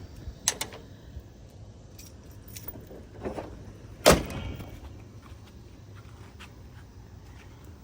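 Light clicks and knocks, then one sharp loud thump about four seconds in.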